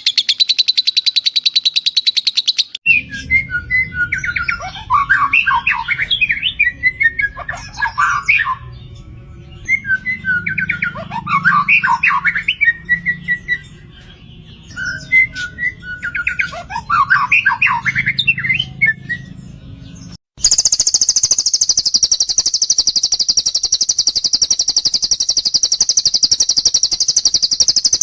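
Recorded songbird audio in three spliced parts: a fast, high trill that stops about three seconds in, then three separate warbling song phrases over a low, steady rush like running water, then a dense, very high, rapid trill that cuts in abruptly about two-thirds of the way through and runs on.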